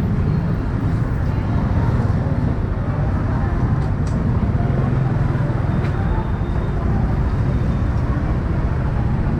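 Steady low rumble of motorcycle and road noise with surrounding city traffic, recorded while riding.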